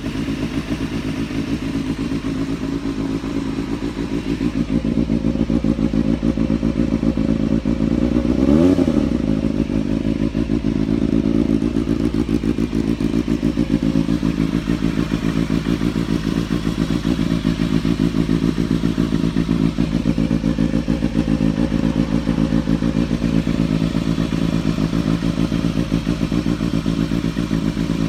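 Suzuki Bandit 250's inline-four engine idling steadily through an Akrapovic aftermarket exhaust, with one short throttle blip about eight seconds in that rises and falls back to idle.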